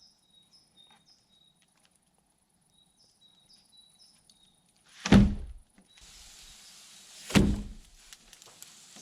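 Two heavy thunks about two seconds apart, the first about five seconds in, over insects chirping steadily.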